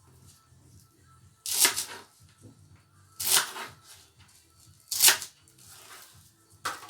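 Something crisp being cut four times, one crunching stroke about every second and a half.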